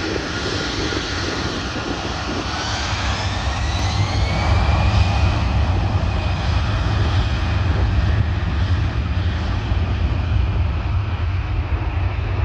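Airliner's engines running loud as the plane passes, with a whine that rises in pitch about two to four seconds in; the sound builds to its loudest near the middle.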